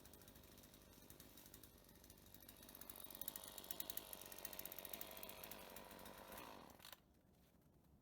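Faint saw cutting through a dry aspen log: a rapid, even rasping of the teeth that grows louder about three seconds in and stops suddenly near the end.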